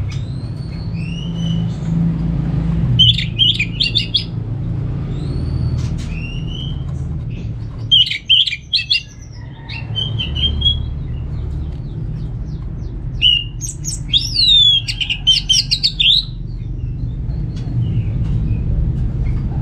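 Orange-headed thrush singing: short upslurred whistles, then three bursts of rapid, varied notes, the longest near the end, over a steady low hum.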